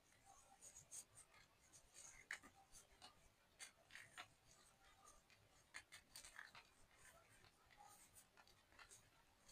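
Blue-dyed corn starch and gym chalk being crushed and crumbled. It makes faint, irregular crunchy crackles and soft scratchy clicks.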